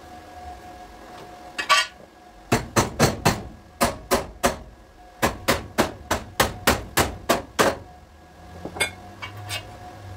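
Hammer striking car body sheet metal in panel beating: a quick run of about twenty sharp blows, three or four a second with a brief pause midway, then a few lighter taps near the end.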